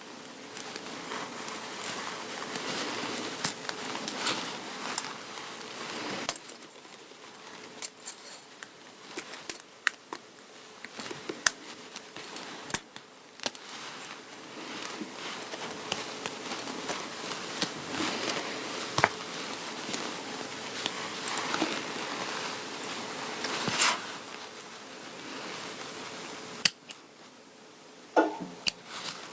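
Close-up rustling of craft materials being handled, with many sharp clicks and small taps scattered through it and a short lull near the end.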